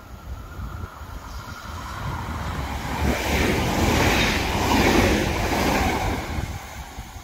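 A Västtågen regional passenger train (an electric multiple unit) passes close by on the tracks: a rushing rumble of wheels on rail. It builds from about a second in, is loudest around four to five seconds in, and then fades away.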